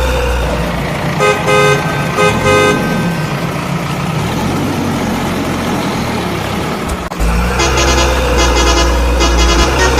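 Truck horn sound: two short toots about a second in, over a steady engine-like rumble. A rhythmic repeating tooting pattern with a heavy bass starts a little after the middle.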